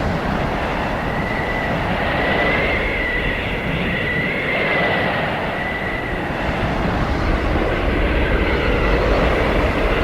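Blizzard wind blowing steadily with a low rumble and a thin, wavering whistle that rises and falls in pitch, clearest in the first half.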